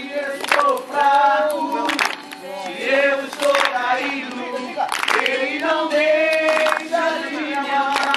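Voices singing a worship song together, women's voices most prominent, with long held notes.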